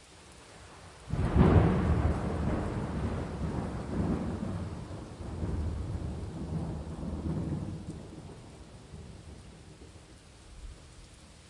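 A thunderclap breaks about a second in and rolls on in several rumbling swells for about seven seconds before fading. Steady rain hisses under it.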